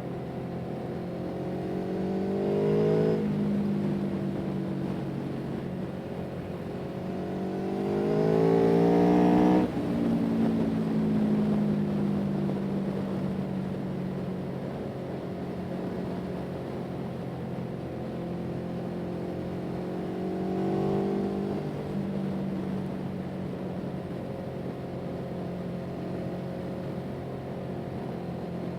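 A motor vehicle's engine running steadily, rising in pitch three times as it accelerates. Each run-up ends in a sudden drop, like a gear change. The second run-up, about a third of the way in, is the longest and loudest, and the engine eases back down afterwards.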